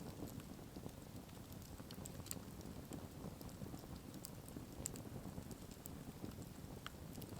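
Campfire crackling: irregular sharp pops and snaps scattered over a low, steady rumble.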